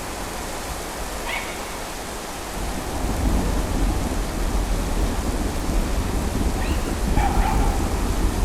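Steady rain with a low rumble of thunder building about three seconds in. Two brief faint calls are heard, one about a second in and one near the end.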